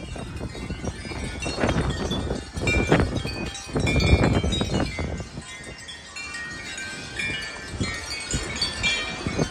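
Metal wind chimes ringing and clanging in strong gusting wind, with the wind rushing across the microphone in surges.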